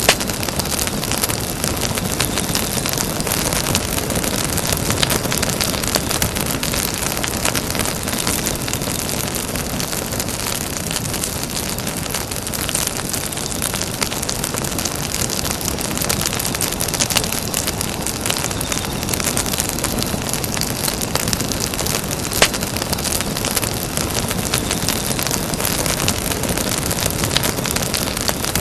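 Campfire burning with a steady dense crackle of many small snaps and hisses, and a couple of louder sharp pops, one right at the start and one about 22 seconds in.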